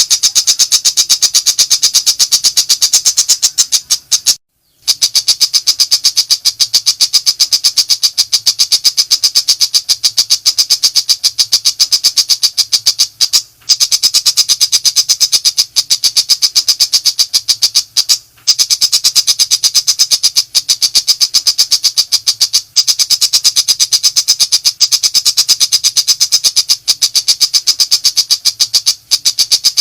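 Shrike (pentet macan) giving its rapid 'nembak' chatter: a loud, harsh, high rattle of many short notes a second. It is sustained, with a few brief breaks of under a second.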